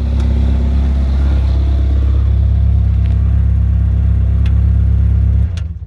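Freshly rebuilt Nissan SR20DET turbocharged inline-four idling steadily with a rattle in the cylinder head, which the crew suspects is the lifters or something overtightened. The engine is switched off near the end and runs down to a stop within about half a second.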